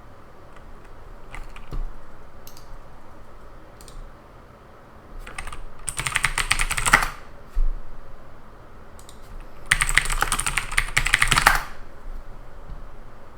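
Typing on a computer keyboard: a few scattered key clicks, then two quick bursts of rapid keystrokes of about one and a half to two seconds each, a few seconds apart.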